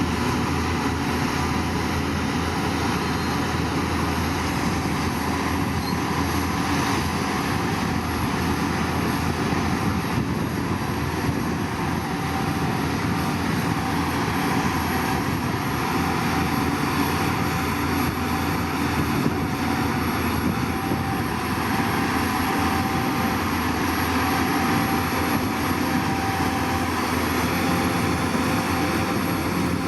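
Heavy construction machine's diesel engine running steadily under load, a continuous engine drone with no pauses.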